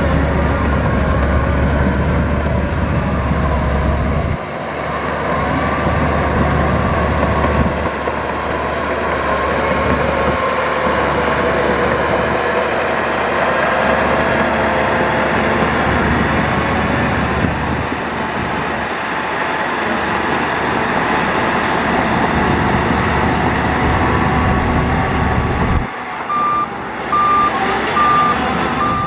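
Heavy diesel earthmoving machinery running steadily under load. Near the end a reversing alarm sounds four even beeps.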